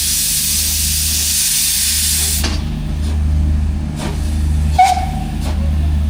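Miniature steam locomotive letting off a loud hiss of steam that cuts off suddenly about two and a half seconds in. A steady low throb runs underneath, and a brief high tone sounds about five seconds in.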